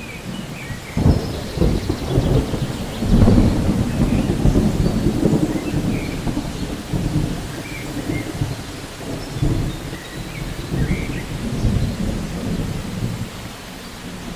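Steady rain with rolling thunder: a deep rumble swells about a second in, is loudest from about three to six seconds in, then slowly eases.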